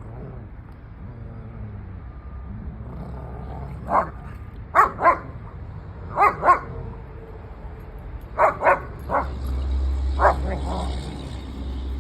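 Dogs barking during rough play: about nine short, sharp barks, mostly in quick pairs, starting about four seconds in. A low rumble rises and fades near the end.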